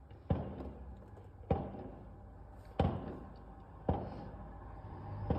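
Fireworks going off: five sharp bangs a little over a second apart, each trailing off briefly.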